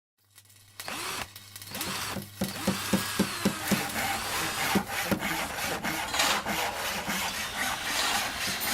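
Rhythmic scraping strokes, about three to four a second, over a steady low hum.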